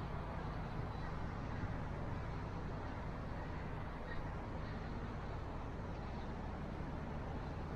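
Steady low mechanical hum and rumble, running evenly without change.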